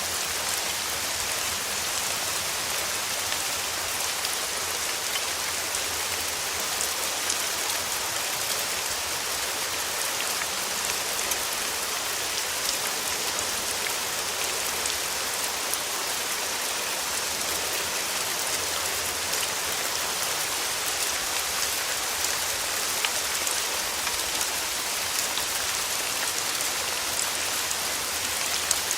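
Steady rain falling on a surface, an even hiss dotted with the small ticks of individual drops.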